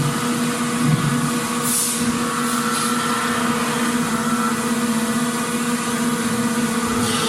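Factory machinery running: a steady mechanical hum with a constant droning tone under a wash of noise, and a short hiss about two seconds in.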